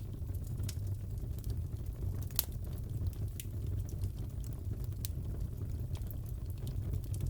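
Crackling fireplace: a steady low rumble of the fire with scattered sharp pops and snaps, one louder pop about two and a half seconds in.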